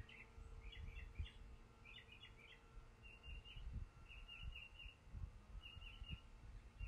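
A songbird singing faintly, repeating short chirpy phrases about once a second, with a few soft low knocks of handling noise.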